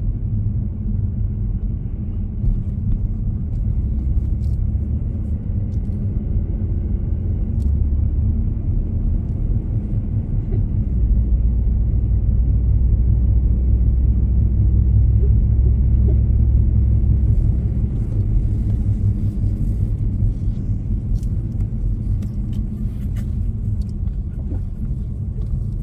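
Car driving on the road: a steady low rumble that grows louder for several seconds around the middle.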